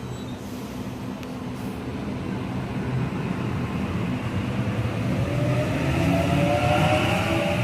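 Sydney Trains electric train rumbling, growing steadily louder; about five seconds in a rising traction-motor whine sets in and keeps climbing in pitch.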